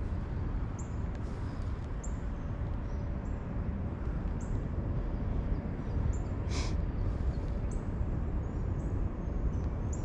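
Short high bird chirps repeating about once a second over a steady low rumble, with one sharp click about two-thirds of the way through.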